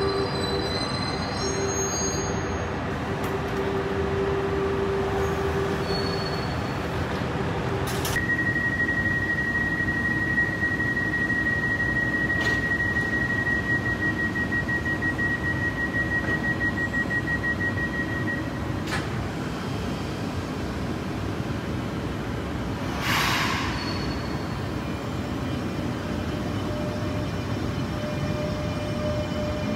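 RER E double-deck electric train standing at an underground platform with a steady rumble and hum. About eight seconds in, a high, rapidly pulsing warning beep starts and lasts about ten seconds: the alert that sounds before the doors close. A short hiss comes about two-thirds through, and at the very end a low motor whine rises as the train starts to pull away.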